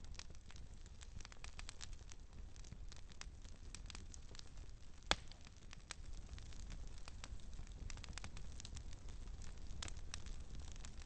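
Wood campfire crackling, with frequent small pops and one sharper, louder pop about five seconds in, over a low steady rumble.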